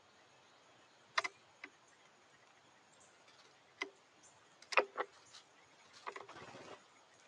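A few sharp taps and clicks, spaced a second or more apart, then a brief scrabbling patter near the end.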